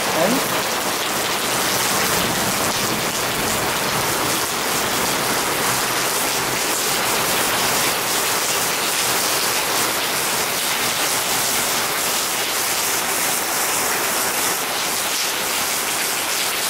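Rain falling steadily: a dense, even hiss of drops striking the tiled floor and hard surfaces.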